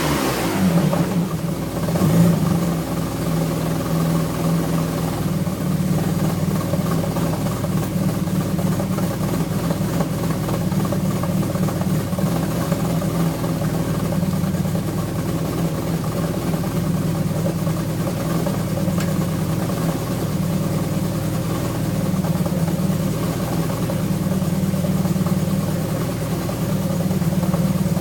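Alfa Romeo V6 engine coming down from a rev at the start, then idling steadily while warming up after winter storage.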